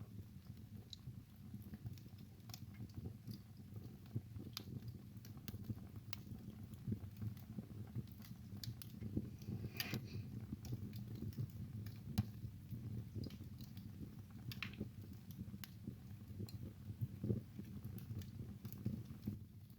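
Wood fire burning in a fireplace: a low steady rumble of flames with irregular crackles and sharp pops, a few louder pops about halfway through.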